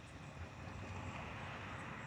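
Metra diesel commuter train approaching: a steady low rumble under a rushing noise.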